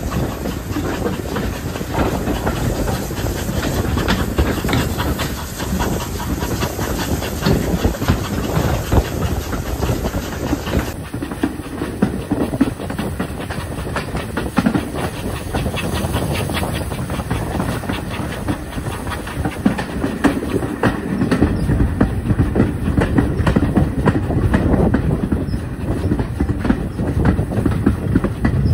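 Steam train behind a pannier tank locomotive running along the line: a continuous clatter of wheels over the rails with steam hissing.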